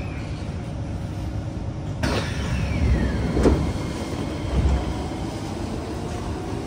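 Interior sound of a Kawasaki C151 metro train running on the line: a steady low rumble of wheels and running gear. About two seconds in, the sound suddenly brightens and a whine falls in pitch, and a sharp knock and a few heavier thumps follow before it settles back to a steady rumble.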